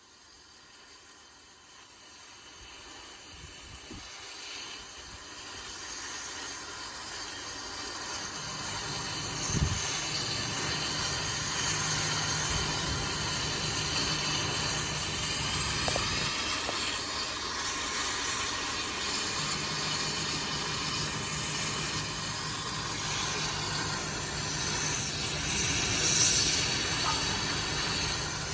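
Gas torch flame hissing steadily as it heats out a rear wheel bearing. The hiss grows louder over the first several seconds, then holds.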